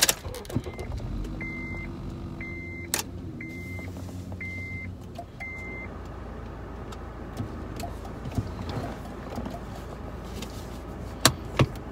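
Car engine starting and settling into a steady idle, heard from inside the cabin. Five short high warning chimes sound about a second apart in the first few seconds, and there are two sharp clicks near the end.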